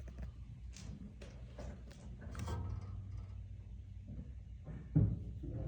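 A series of short knocks, about five in the first two and a half seconds, then one heavy thump about five seconds in.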